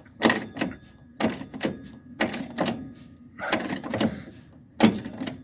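A hand wrench working a nut onto a shock absorber stud: a series of short metallic ratcheting strokes, roughly one or two a second, at an uneven pace.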